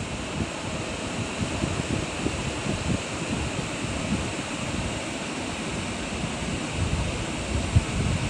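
Hurricane wind blowing hard and steadily, with gusts buffeting the microphone in low rumbles that are strongest near the end.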